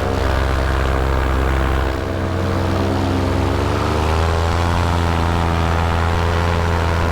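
Paramotor engine and propeller running close by with a steady drone; about three seconds in the throttle is opened and the pitch rises, then holds at the higher speed.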